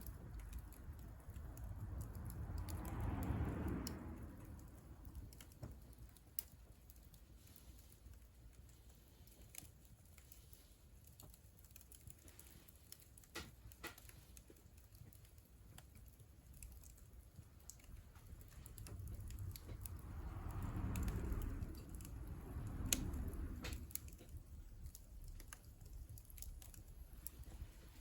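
Wood fire crackling in a wood-burning stove: faint, scattered sharp pops and ticks, with a low rushing swell that rises and fades twice.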